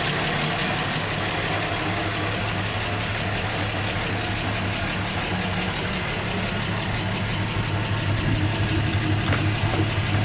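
A 1962 Dodge Dart 330's slant-six engine idling steadily.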